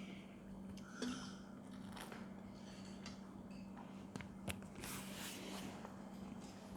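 Faint chewing and mouth sounds of people eating, with a few sharp clicks, over a steady low hum.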